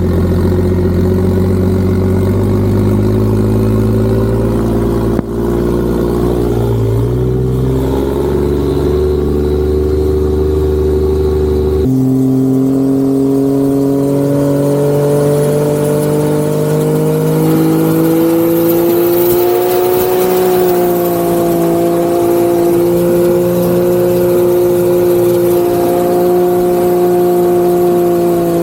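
Turbocharged Ford Barra 4.0-litre straight-six in a race boat running under way, its pitch mostly steady with small rises and falls. The pitch changes abruptly about twelve seconds in.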